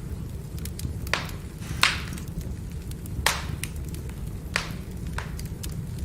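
Firewood burning with a steady low rumble, crackling with faint ticks and five sharp pops, the loudest about two and three seconds in.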